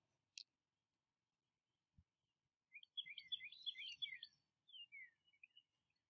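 A songbird singing faintly: a quick run of short chirps and slurred notes. It begins about three seconds in and lasts about two and a half seconds.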